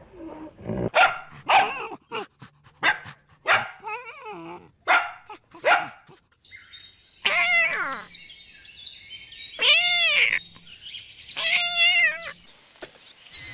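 A dog barking several short times in the first half. Then come three long calls that rise and fall in pitch.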